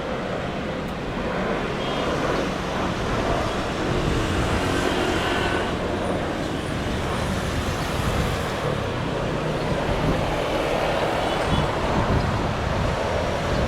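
Jet airliner on landing approach: a steady rushing roar with faint high whining tones.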